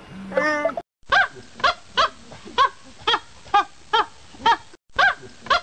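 Red panda calling: a run of short chirps, each falling in pitch, about two a second, with a brief break near the end. In the first second, a single short call from a cheetah.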